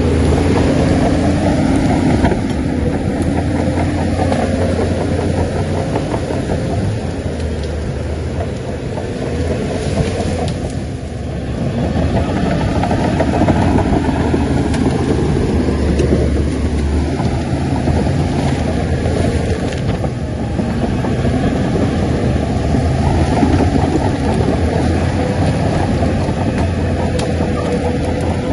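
Heavy diesel engine of a Shantui bulldozer running under load, steady and loud. The engine note rises and falls with the work and dips briefly about eleven seconds in.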